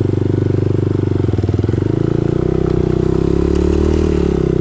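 Dirt bike engine running steadily, its note shifting about two seconds in.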